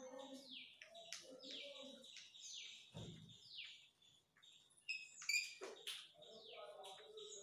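A bird chirping over and over, a faint string of short falling calls about two a second. Soft murmured voices sit beneath it, and a sharp tap comes about five seconds in.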